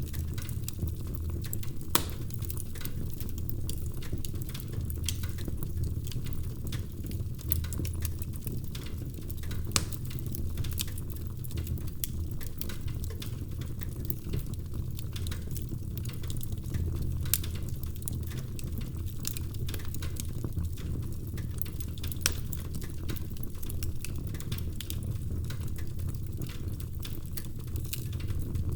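Wood fire crackling in a fireplace: a steady low rumble of flames under a constant run of small pops, with a few louder single snaps.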